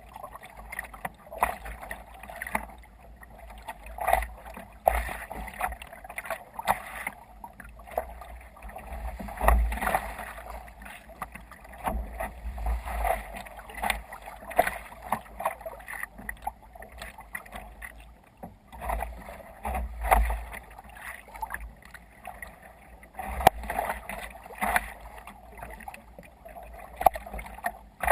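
Water splashing and slapping irregularly against a sea kayak's hull as it moves through choppy water, over a low wind rumble on the microphone.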